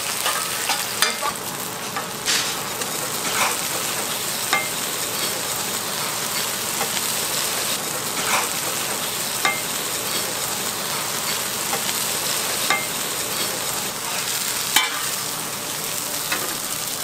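Korean pancakes (jeon) sizzling in oil on a large flat iron griddle: a steady frying hiss with a sharp click every second or few.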